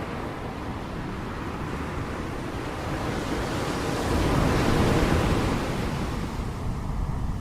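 Ocean surf: a wave swells and crashes about four to five seconds in, then the wash fades back, over a steady rush of sea.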